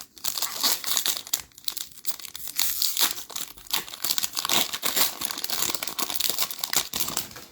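Plastic wrapper of a Panini Select basketball card pack crinkling and tearing as it is opened. It stops suddenly just before the end.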